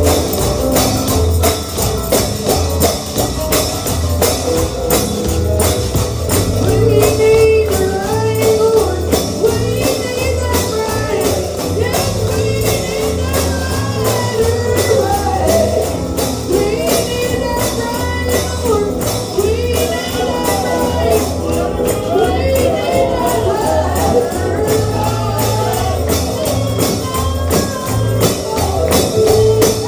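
Gospel band playing an up-tempo number in the holiness shouting style, driven by a tambourine shaken and struck on every beat over a pulsing bass line. A wavering melody line rises above it through the middle stretch.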